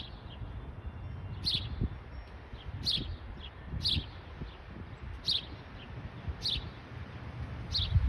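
A bird repeating short, sharp chirps, about one a second. The uploader thinks it may be a house sparrow.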